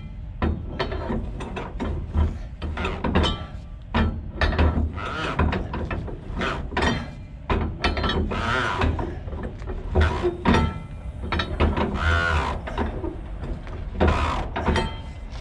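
Ratchet straps being cranked tight on a trailer load: runs of sharp metallic ratcheting clicks, stopping and starting.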